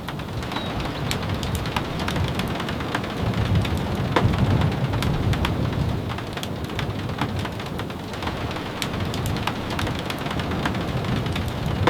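Steady rain falling, with a low rumble that swells about four seconds in and scattered sharp ticks throughout.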